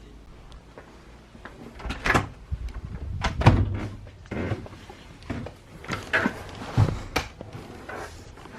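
A series of irregular knocks and clunks, the loudest about three and a half seconds in, over a faint low rumble.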